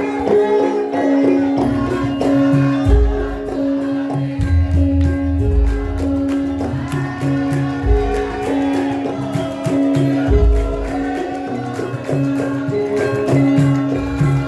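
Javanese gamelan music accompanying a lengger dance: repeated metallic pitched notes over deep drum strokes, with busy jingling percussion.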